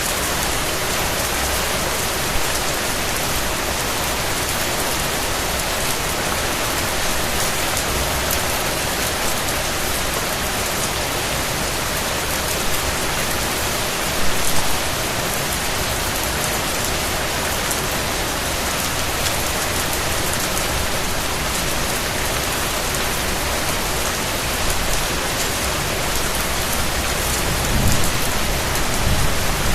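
Steady rain falling and pattering on surfaces, a dense even hiss. Two brief low rumbles rise under it, about halfway through and near the end.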